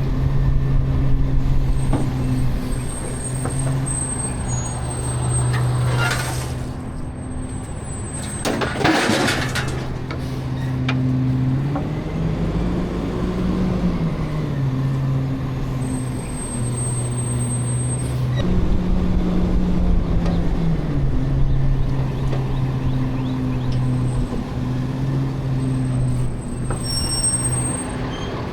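Garbage truck's diesel engine running steadily, its pitch rising and falling back twice. Two short air-brake hisses come about six and nine seconds in.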